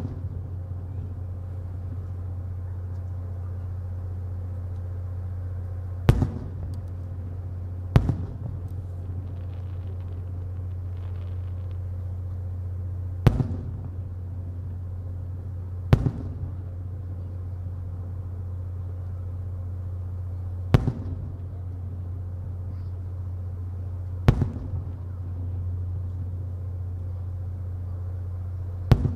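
Aerial firework shells bursting one at a time: seven sharp booms spaced a few seconds apart, each with a brief echo, over a steady low hum.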